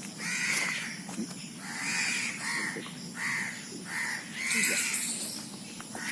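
Crows cawing, about six harsh caws in a row, some spaced a second apart and some closer together.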